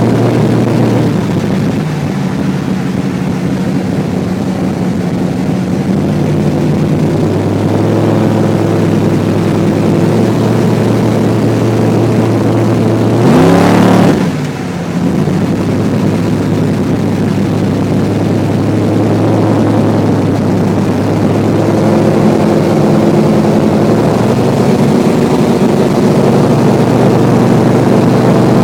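Car engine running steadily while driving, with one quick rise in engine speed about halfway through that drops back off.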